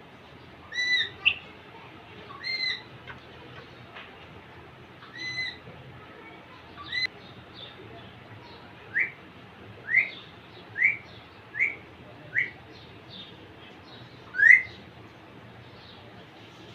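Indian ringneck parakeet giving short whistled calls: four arched notes in the first half, then a run of six quick rising chirps, the last the loudest.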